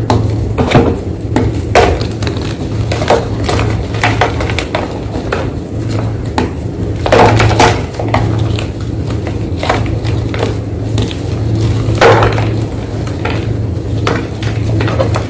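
Fresh white gym chalk being crunched, a dense run of irregular dry crackles and crunches with a few louder snaps, the loudest about twelve seconds in.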